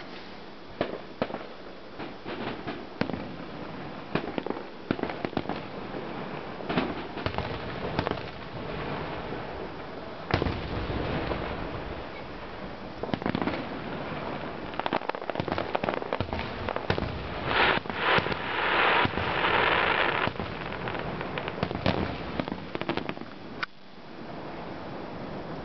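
Fireworks display: a run of sharp bangs and pops throughout, with a dense burst of crackling from about 17 to 20 seconds in.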